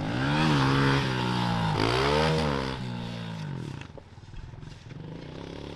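Dirt bike engine revving hard twice, the pitch climbing and falling each time, then dropping back to a quieter, steady running about four seconds in.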